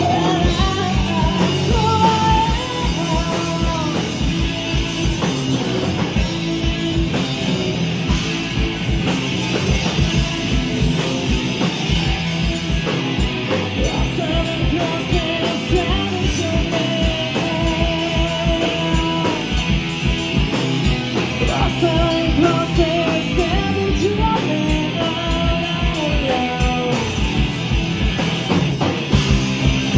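A live rock band playing a song: drum kit with a steady driving kick drum, bass and guitars, and a melody line over them.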